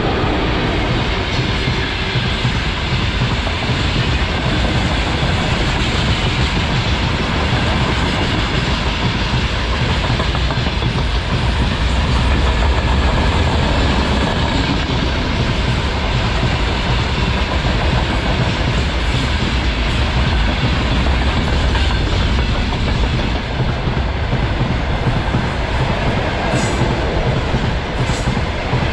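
Freight train wagons rolling past close by: a steady, loud rumble and clickety-clack of steel wheels on the rails.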